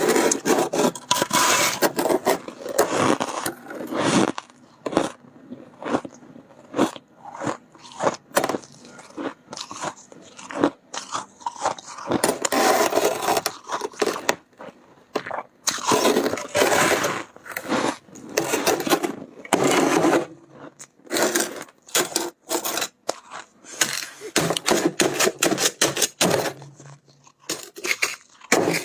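Close-miked crunching and scraping of soft, powdery freezer frost in dense, irregular bursts with short pauses.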